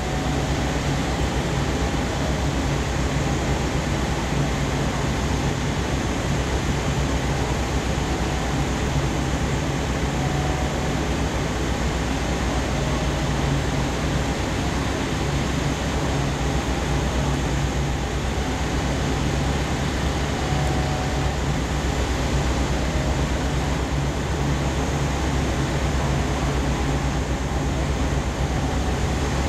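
Parked JR West 381 series electric train's onboard equipment running, giving a steady, unchanging hum with a low drone.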